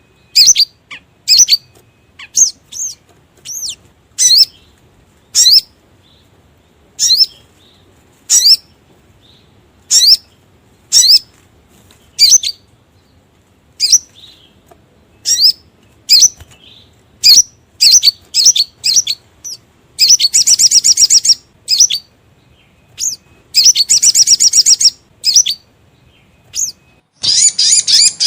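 Lure recording of the sogon bird's call: sharp, high chirps repeated roughly once a second, broken twice by a fast rattling trill of about a second, with another rapid trill starting near the end.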